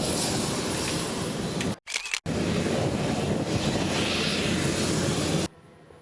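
Loud, steady rushing noise of aircraft engines at an airshow, broken by a short gap at about two seconds and cut off abruptly near the end.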